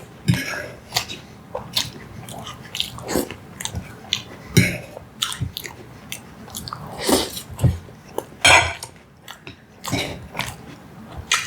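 A person chewing and smacking soft food close to the microphone, with irregular wet mouth clicks.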